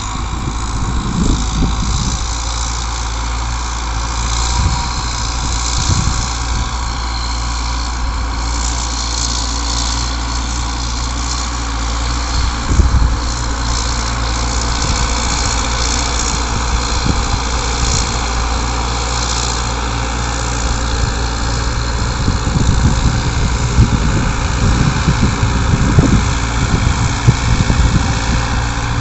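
Ford 7000 tractor's four-cylinder diesel engine running steadily while ploughing, with irregular low thumps, more of them in the second half.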